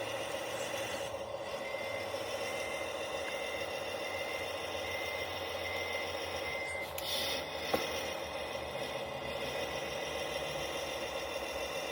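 Tamiya Globe Liner radio-controlled truck running: a steady electric-motor and gearbox whir with light rattling, a high whine for the first several seconds and a single sharp click near the end.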